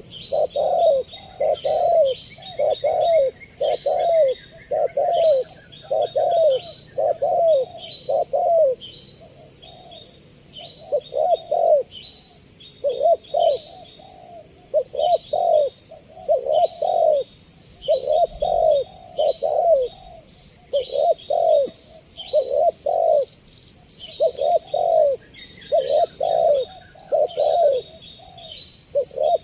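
Spotted dove (tekukur) cooing, a long run of low, arching coos about two a second, broken by a pause of a couple of seconds about ten seconds in. Small birds chirp high in the background.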